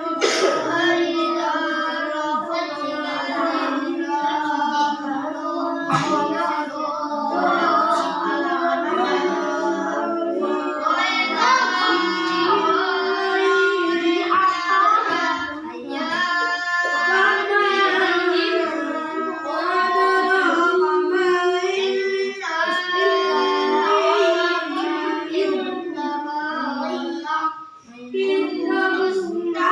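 Children's voices chanting a recitation in a melodic, sung style, with long held, wavering notes and only brief breaths between phrases.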